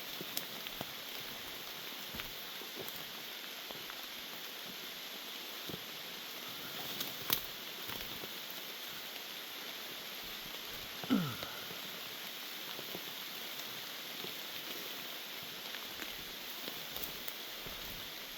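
Heavy rain falling steadily, an even hiss with scattered drop taps. A sharp tap comes about 7 seconds in, and a brief sound falling steeply in pitch about 11 seconds in.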